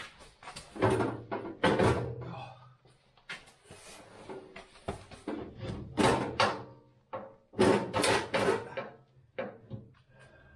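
A run of irregular knocks and clunks, with loud ones about one, two, six and eight seconds in: parts and tools being handled and set down on a workbench.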